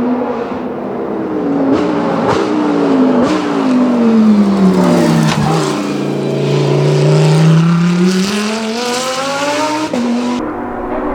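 Hill-climb race car engine, its pitch falling as the car slows, with a few sharp cracks, then rising steadily as it accelerates hard again. The sound changes abruptly near the end.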